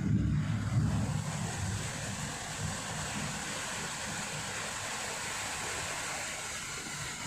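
Storm wind rushing steadily. In the first second or so a low rumble of wind buffeting the microphone fades away.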